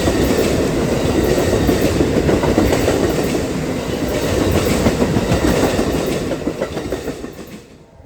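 Train passing close by, its wheels clicking over the rail joints with a loud rumble, fading away quickly near the end as the last cars go by.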